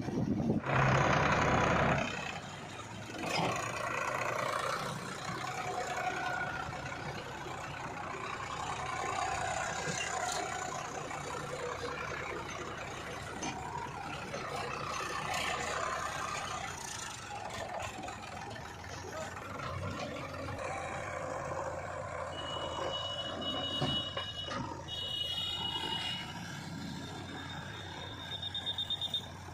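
Diesel engines of a JCB 3DX backhoe loader and a tractor running while loading mud, with a loud noisy burst about a second in. From about two-thirds of the way through, a reversing alarm beeps repeatedly at a high pitch.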